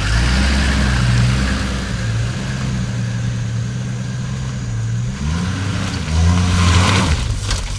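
A motor vehicle's engine running steadily. About five seconds in its pitch swings up and back down, then it runs a little louder near the end.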